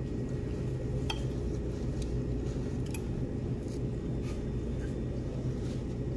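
Steady low room hum with a few faint, scattered clinks of cutlery and dishes as people eat at a table.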